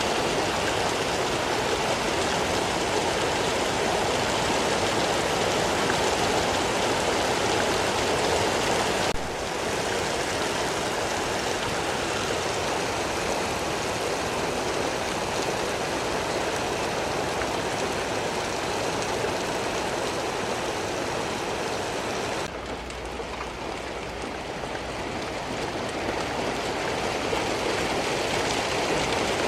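Steady rainfall, an even hiss of drops with no break. The sound steps down a little, abruptly, about nine seconds in and again about twenty-two seconds in.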